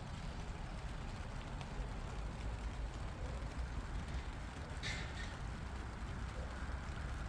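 Farm machine engine running steadily with a low rumble, and a brief hiss about five seconds in.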